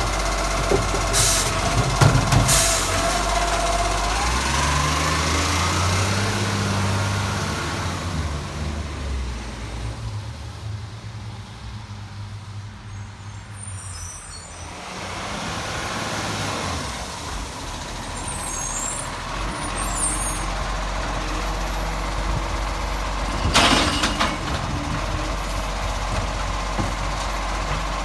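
Garbage truck's diesel engine running, its note rising about four seconds in, then dropping away for a few seconds and picking back up. Short air-brake hisses about two seconds in and again near the end.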